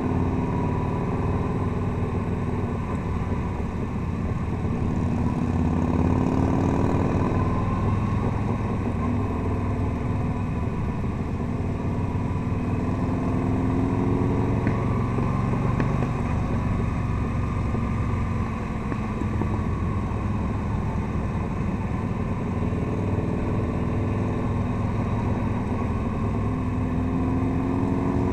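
The engine of a touring motorcycle running under way on a twisty road. Its pitch rises and falls again and again as the throttle opens and closes through the bends.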